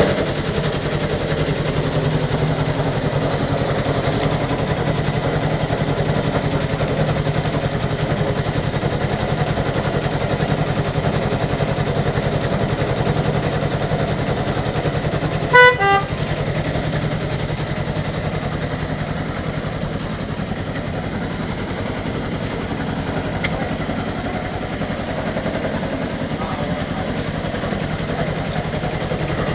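Miniature railway locomotive engine running steadily, with one short horn toot about halfway through.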